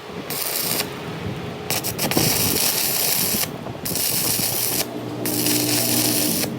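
Metalworking machine noise: a hissing, scraping sound that stops and starts every second or two, with a steady hum under it near the end.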